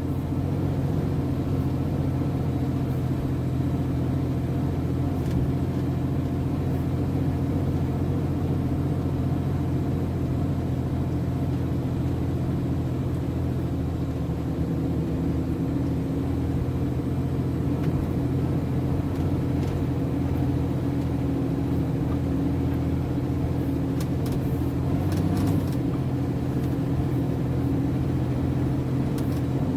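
MAN TGS 33.480 truck's diesel engine running with a steady low drone.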